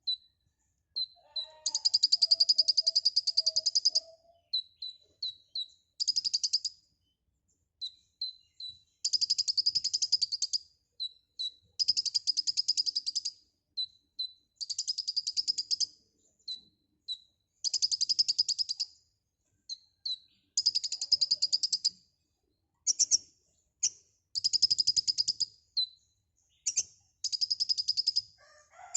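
Kolibri ninja (Van Hasselt's sunbird) singing in full voice. Fast, high, buzzy trills a second or two long come every few seconds, with short high chirps in between.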